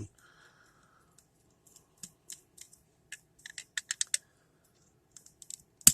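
Plastic Beyblade launcher clicking and snapping as it is worked by hand: a quick run of sharp clicks about two seconds in, then a few more ending in one loud snap.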